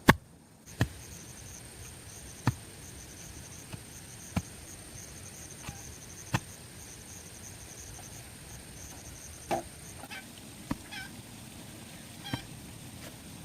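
Sharp single knocks every one to two seconds, over a faint high trill, with a few short pitched calls near the end.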